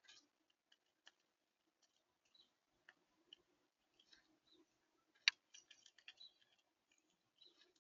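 Faint, scattered clicks and taps on a bird feeder, from visitors pecking and shifting on it, with one sharper click about five seconds in.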